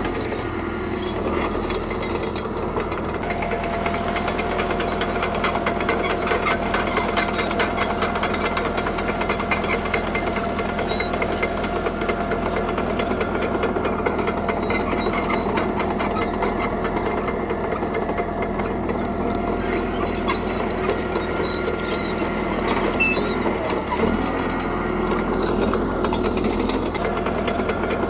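CAT D3K bulldozer's diesel engine running steadily under load, with clanking and rattling from the tracks and blade. A steady whine joins about three seconds in, and the engine note dips and picks up again near the end.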